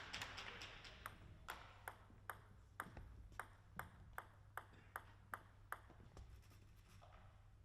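A celluloid table tennis ball bounced again and again, about a dozen faint, light ticks at an even pace of roughly two and a half a second, which stop shortly before the end.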